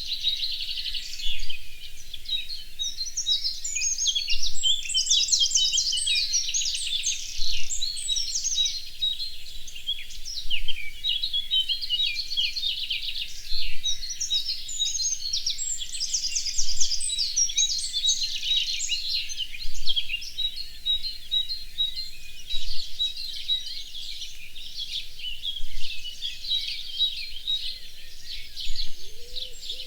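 Several songbirds singing at once: overlapping trills and chirps, with one high note repeating at a steady pace throughout. A faint low call comes in near the end.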